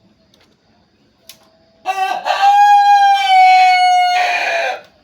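A rooster crowing once: a single long crow starting about two seconds in, its drawn-out middle note held steady and dropping slightly as it ends.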